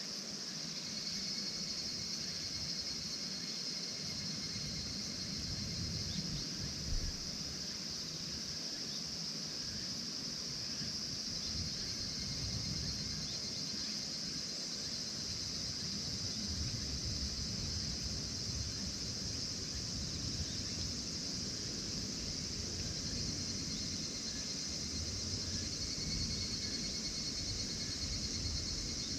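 Steady high-pitched chorus of insects calling together, with a low uneven rumble underneath and one brief thump about seven seconds in.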